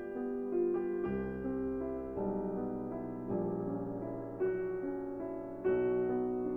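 Background piano music: slow chords struck about once a second and left to ring.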